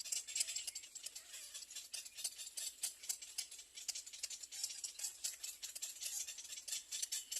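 Little egret nestlings begging for food with a fast, dry clicking rattle that runs on without a break.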